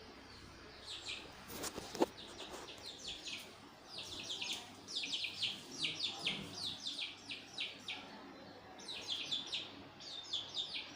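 Birds chirping: runs of short, high, quickly falling chirps, several a second, busiest in the second half. A single sharp knock about two seconds in.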